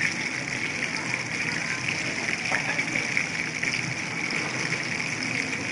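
Chicken lollipops deep-frying in hot oil: a steady, crackling sizzle.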